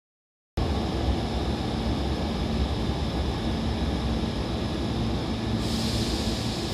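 Hankyu 3300 series electric train departing from the platform: a steady low rumble with a constant hum, and a rising hiss that comes in about five seconds in.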